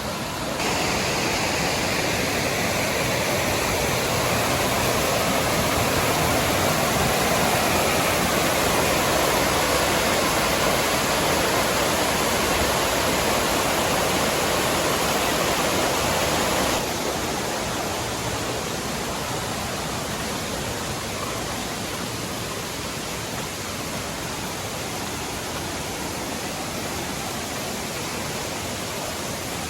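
Steady rush of fast-flowing water from a waterfall and creek running high. It jumps louder about half a second in and falls back to a softer, duller rush a little past halfway.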